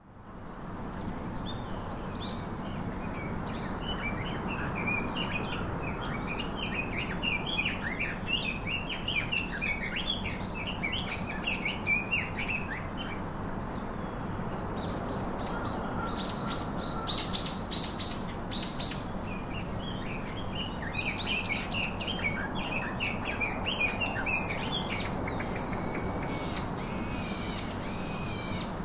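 Small birds chirping and twittering in many quick notes over a steady low hum; near the end a few longer, clearer calls of another bird.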